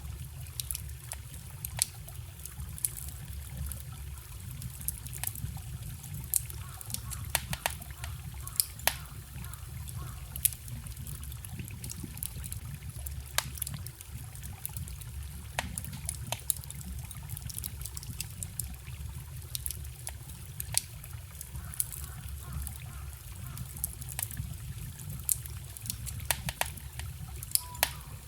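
Wood fire crackling, with frequent sharp, irregular pops, over the steady trickle and rush of a small forest stream.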